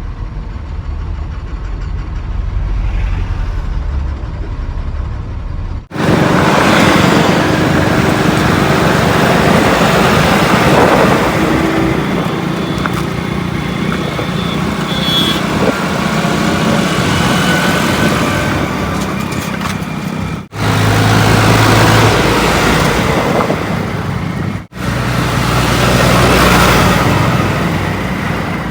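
Engines of heavy diesel vehicles running steadily, a low rumble at first and then louder engine noise from about six seconds in, broken by abrupt cuts about twenty and twenty-five seconds in.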